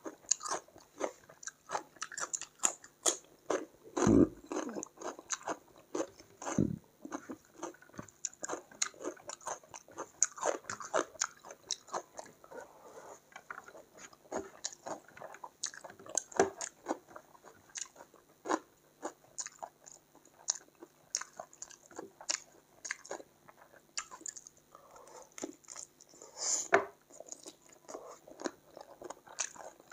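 Close-miked chewing and crunching of a meal of rice, chicken curry and cucumber eaten by hand, with wet mouth and lip sounds and irregular small clicks. A few louder dull knocks come about four seconds in, about seven seconds in and near the end.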